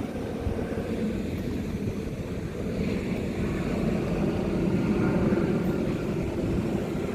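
Wind buffeting the microphone, a steady fluttering low rumble.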